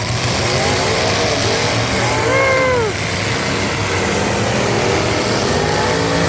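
Several full-size pickup truck engines running together in a demolition derby arena, with a steady rumble and engines revving up and back down, the clearest rev about two and a half seconds in.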